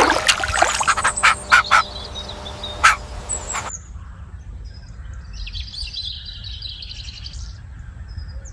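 Several sharp clacks and flutters over the first few seconds, stopping abruptly, then about three seconds of rapid, high bird chirping.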